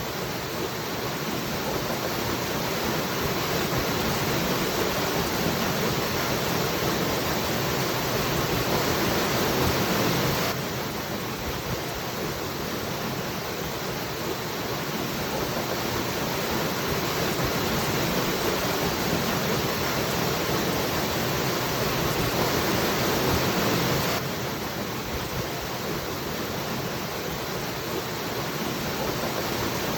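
Waterfall rushing as a steady wash of water noise, dropping suddenly in level about ten seconds in and again near the end, then building back each time.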